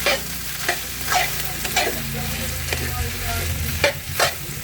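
Fried rice with chicken being stir-fried in a hot pan: a steady sizzle with repeated sharp scrapes of the spatula against the pan, about one every half second to a second.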